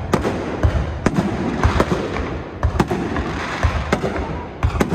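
Aerial fireworks going off in quick succession: a rapid, irregular run of sharp bangs, about three a second, over a continuous crackle.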